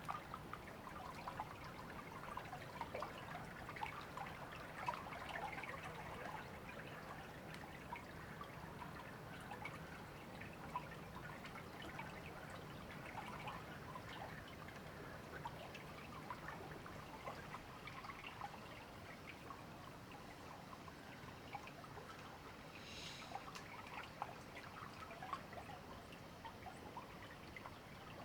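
Small river or stream babbling and trickling steadily over stones, with many little splashes. A brief high bird call comes in near the end.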